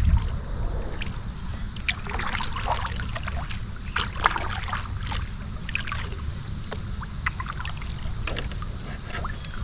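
Water splashing and dripping lightly around a kayak, with scattered small ticks and knocks over a steady low rumble.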